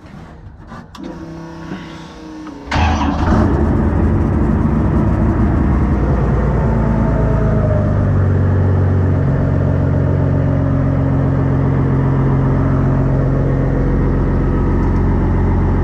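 Cummins diesel engine in a truck being started: the starter cranks for a couple of seconds, then the engine catches suddenly, runs up and settles into a steady idle.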